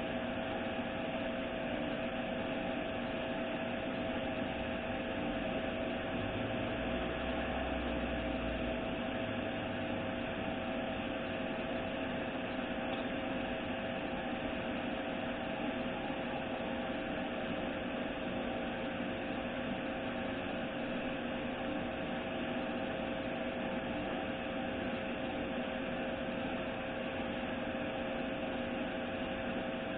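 Steady machine drone: an even hiss with a couple of steady tones, unchanging throughout, from a machine running in the background.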